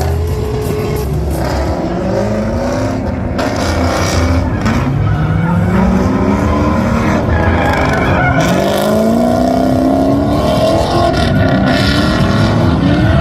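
Drift car on track, its engine revving hard again and again, the pitch climbing and dropping back several times, with tyres skidding.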